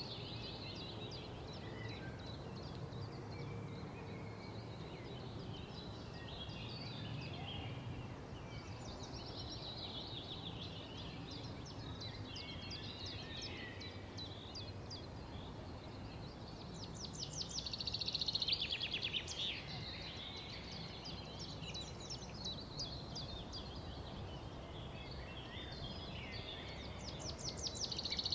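Songbirds chirping and trilling over steady background noise, with louder bursts of rapid trills about two-thirds of the way through and again at the end.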